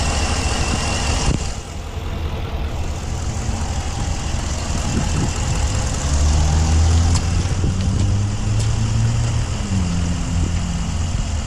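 Dodge's 5.7 liter Hemi V8 idling steadily in the engine bay.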